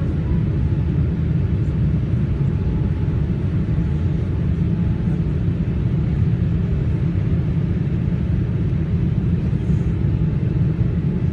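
Steady low rumble of a Boeing 787 Dreamliner in flight, the engines and airflow heard as even cabin noise with no change in level.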